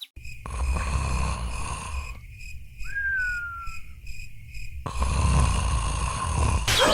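Crickets chirping in a steady pulsing rhythm over a low rumble, with a single falling whistled note about three seconds in; the sound cuts abruptly several times.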